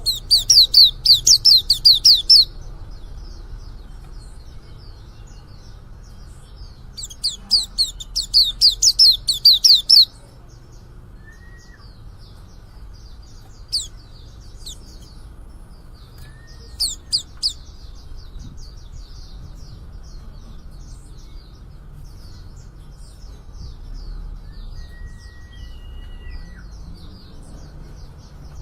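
Young male white-eye (pleci) just beginning to sing: two loud runs of rapid, high chirps, one at the start and one about seven seconds in, with softer twittering and a few single calls between and after.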